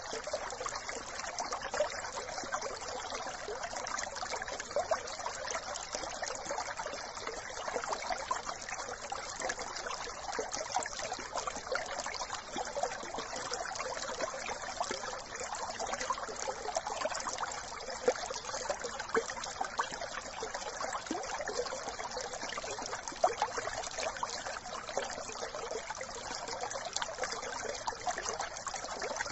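A small brook trickling and babbling: a steady rush of running water full of tiny splashes and gurgles.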